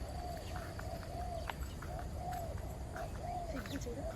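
A bird calling over and over, a short rising-and-falling note about twice a second, with faint clicks among the calls.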